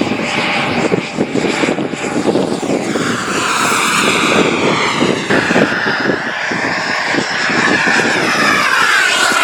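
Airworld Cougar RC model jet in flight, its engine giving a steady whine that shifts in pitch as it flies past, dipping and then rising again near the end. Wind buffets the microphone throughout.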